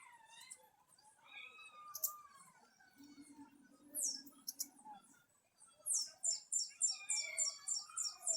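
Several wild birds calling and chirping over one another. From about six seconds in, one bird gives a rapid run of high, falling notes, about four a second.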